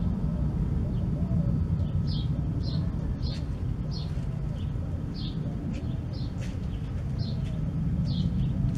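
A small bird chirping over and over, short high chirps about every half second, over a steady low rumble of outdoor background noise.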